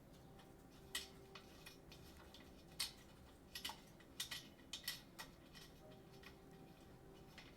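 Scattered sharp clicks and knocks from a steel keyboard stand being handled and unfolded, spaced irregularly a second or so apart over a faint steady hum.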